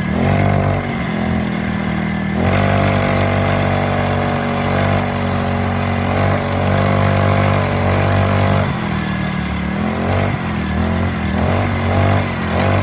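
Pit bike engine running: held at a steady speed for about six seconds in the middle, then revved up and down in short blips near the end.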